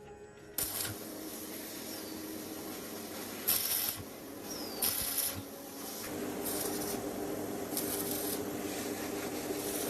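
Workshop tool noise: a steady rubbing, rasping noise over a faint hum, starting about half a second in, broken four times by short, sharp hissing bursts.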